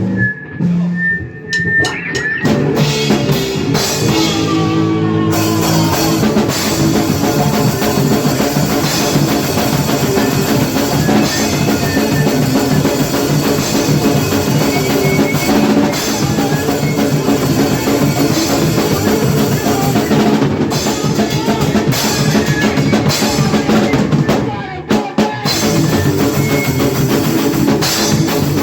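Hardcore punk band playing with a drum kit driving hard on bass drum and snare. It kicks in about two seconds in after a few held notes, breaks off briefly near the end, then comes straight back in.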